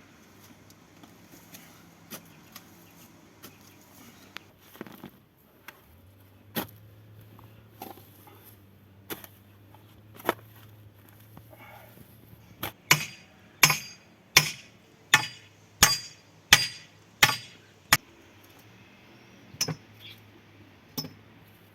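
Hammer blows, a few scattered strikes at first, then a steady run of about nine blows, roughly one every 0.7 seconds, before two last strikes near the end.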